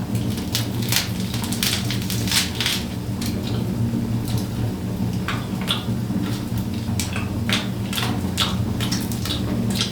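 Steady rain falling, with irregular sharp clicks and pops a few times a second over a continuous low rumble.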